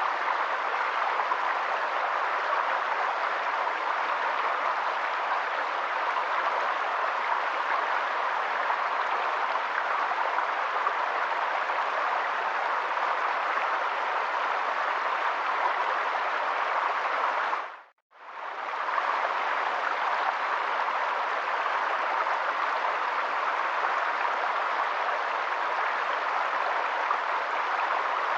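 Steady rush of flowing water, even and unbroken, that fades out briefly and comes back about eighteen seconds in.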